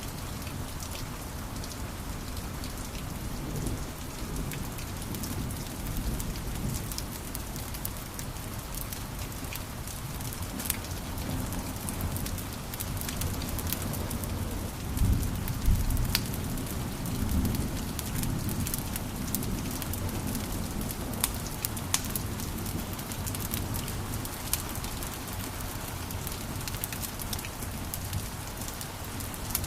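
Wood fire crackling in a fireplace: a steady low rumble of flames with frequent sharp pops and snaps, a cluster of louder pops about halfway through.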